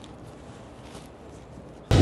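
Faint background hiss, then near the end an Aprilia RS660's parallel-twin engine, breathing through an Arrow full exhaust with the dB killer fitted, cuts in abruptly, already running.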